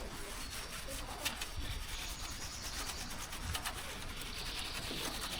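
A steady rough rubbing sound with scattered light clicks.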